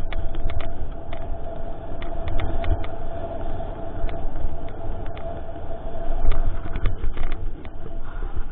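Mountain bike ridden over a rough trail, heard through a GoPro microphone: heavy wind rumble with frequent clicks and rattles as the bike jolts over the ground, and a faint steady hum.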